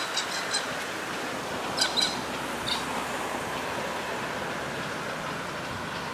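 A steam-hauled mixed goods train heard from a distance as it departs, a steady rumble of the train running away. Several short, high bird chirps come over it in the first three seconds.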